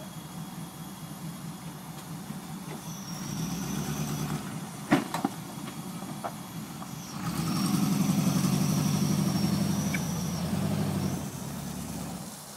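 Off-road 4x4's engine labouring through deep mud, working harder twice and loudest for about four seconds in the second half before easing off. Two sharp knocks come about five seconds in, and a thin high whine sits over the engine while it works hardest.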